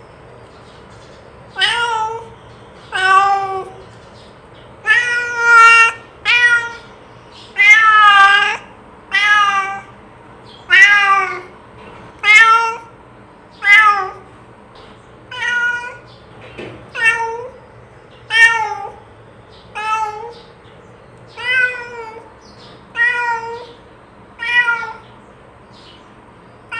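A domestic cat meowing over and over, about twenty separate meows a second or so apart, each short with a bending pitch.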